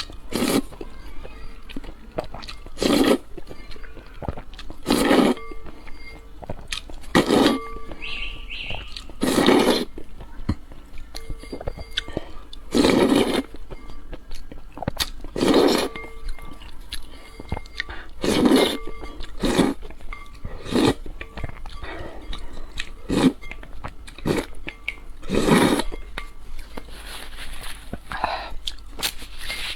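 Close-miked eating sounds: loud mouthfuls every two to three seconds, with quieter chewing between them.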